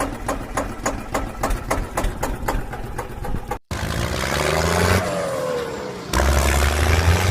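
Vehicle engine sounds in two parts: an engine clattering at idle with about four knocks a second, then, after an abrupt cut, a louder engine revving with a falling whine and a step up in power near the end.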